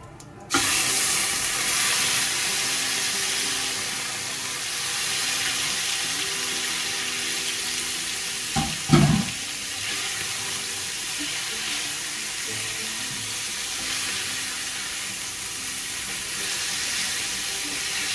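Chicken livers hitting very hot oil in a stainless steel skillet, bursting into a loud sizzle about half a second in that keeps up steadily as they are stirred with a wooden spoon. A couple of sharp knocks stand out about nine seconds in.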